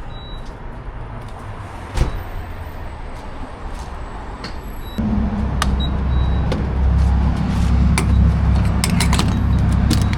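A vehicle engine running with a low steady hum that comes in suddenly about halfway through. There is a single knock about two seconds in, and a run of sharp clicks near the end.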